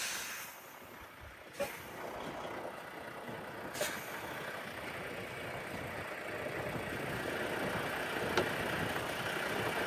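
Semi truck running on a snowy road, a steady rushing noise that slowly grows louder, with a few short clicks.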